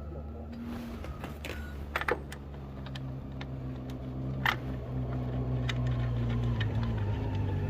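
Scattered small clicks and taps of hand tools and metal parts being handled, with a pair of sharper clicks about two seconds in and one sharp click about four and a half seconds in, over a steady low hum.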